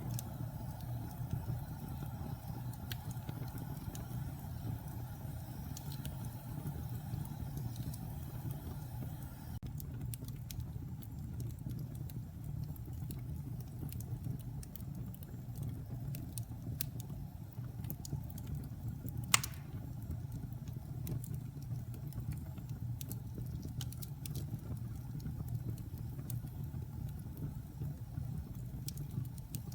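Logs burning in a fireplace: a steady low rumble with scattered small crackles, and one sharp, much louder pop about two-thirds of the way through.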